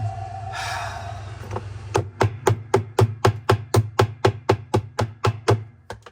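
A hammer tapping rapidly on a Maytag Bravos washer's seized wash plate: about fifteen quick, even strikes, roughly four a second, starting about two seconds in, meant to shock the wash plate loose from the shaft.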